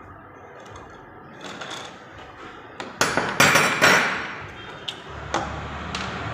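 Metal tools knocking and clinking on the motorcycle's metal parts as bolts are undone: a quick cluster of sharp metallic knocks about three seconds in, then a few single clicks.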